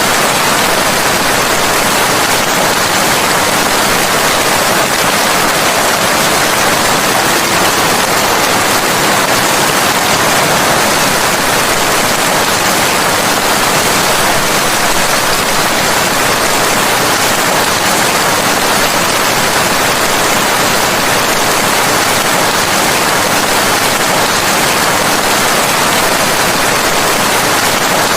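Steady, heavy rain with a dense, even hiss, no single drops standing out and no change in level.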